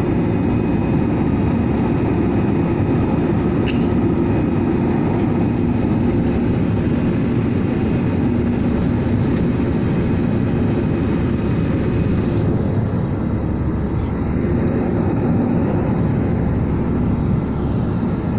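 Airliner jet engines running with a steady, loud low rumble and a faint high whine; the hiss at the top end drops away about twelve seconds in.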